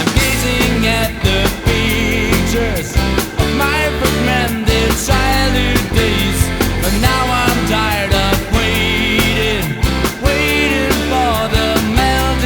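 Pop-rock band music: a steady drum beat and sustained low bass under a wavering melodic lead line.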